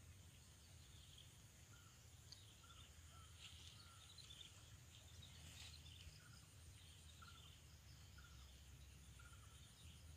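Near silence: faint outdoor ambience, with a bird repeating a short chirp about once a second and a steady high-pitched insect drone over a low rumble.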